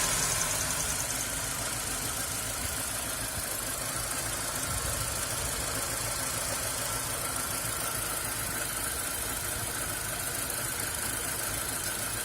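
2001 Hyundai Accent's 1.3 L G4EA four-cylinder engine idling, easing down in the first second or two and then running steadily. The idle is rough, a fault the owner suspects lies in the valves or valve guides.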